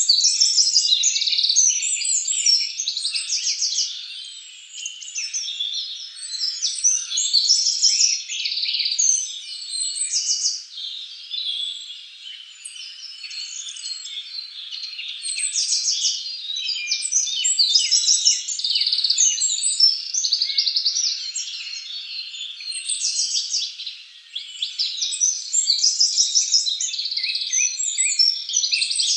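A dense chorus of birds chirping and trilling, many calls overlapping, swelling and fading by turns.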